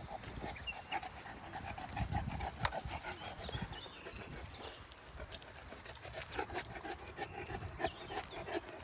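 Boerboel dog panting, a quick, even rhythm of breaths, with a few light clicks over it.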